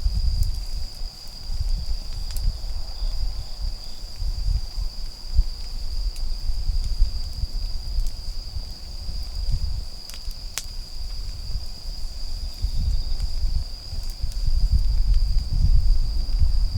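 Autumn insects singing in a steady high-pitched trill, with a few sharp crackles from a wood fire. An uneven low rumble runs underneath and is the loudest part.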